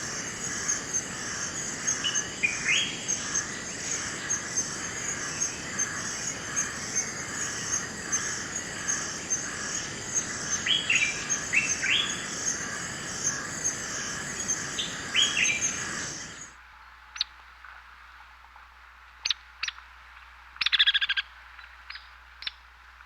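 Rainforest birds calling. A dense chorus with a steady, pulsing high trill and repeated short rising calls stops abruptly about sixteen seconds in. After that only scattered sharp chirps and one brief rapid trill are heard over a quiet background.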